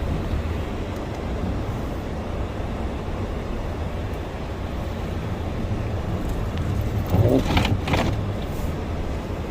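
Steady low rumble of a vehicle running, with a brief louder noise about seven seconds in.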